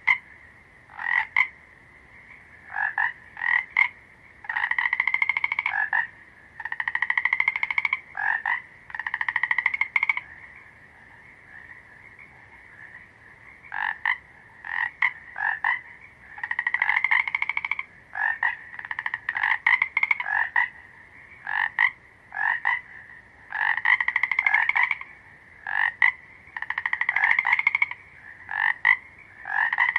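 A frog calling repeatedly: short single croaks mixed with longer pulsed croaks about a second long, with pauses between the bouts.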